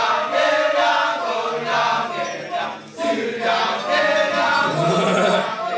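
Kecak chant: a chorus of voices chanting and singing together, with a brief dip about three seconds in.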